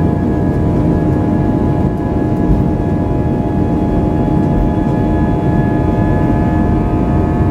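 Jet airliner engines heard from inside the cabin: a steady, loud noise with a constant whine made of several held tones.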